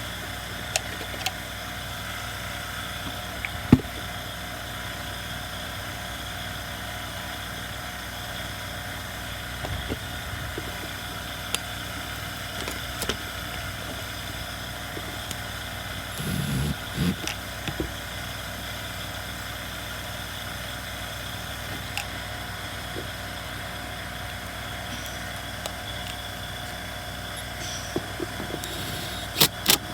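A steady background hum with several constant tones, over which small hand tools and chainsaw parts click and knock now and then while being handled: one sharp knock about four seconds in, a brief rumbling clatter just past the middle, and a few quick clicks near the end. The saw itself is not running.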